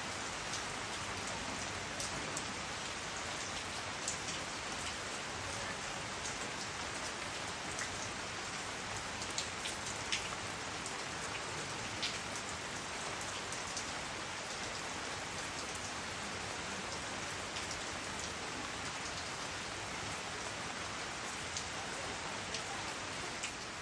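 Steady rain falling on plants and trees: an even hiss with frequent sharp ticks of individual drops.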